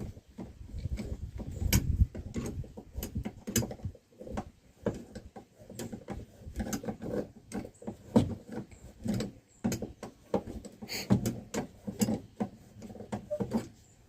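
Irregular small clicks, taps and rubbing of hands and metal parts as a joystick control cable's threaded end is screwed down and adjusted by hand.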